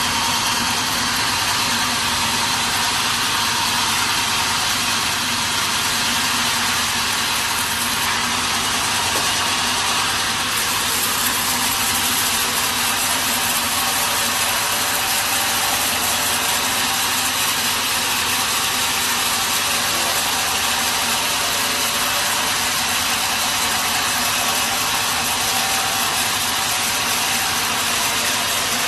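Sawmill machinery running with a steady, loud, even mechanical noise that holds without a break.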